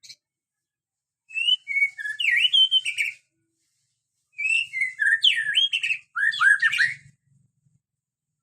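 White-rumped shama singing: three bursts of rapid, varied whistled notes, each one to two seconds long, separated by short pauses.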